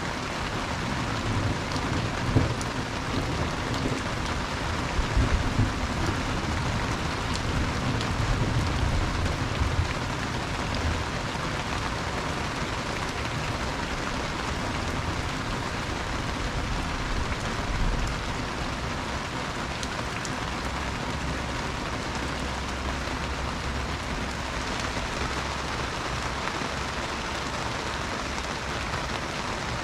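Heavy rain falling and splashing on the ground. Low rumbles come and go through the first ten seconds or so and once more about eighteen seconds in.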